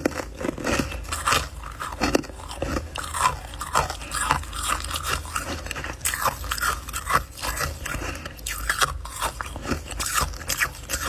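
Close-up biting and chewing of refrozen freezer frost, a dense run of irregular crunches and crackles as the ice is bitten off and broken between the teeth.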